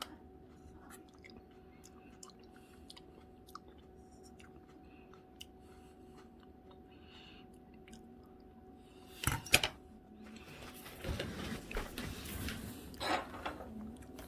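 Someone eating fruit salad: quiet chewing and small clicks of a spoon. About nine seconds in come two sharp knocks, then a few seconds of louder clattering and rustling.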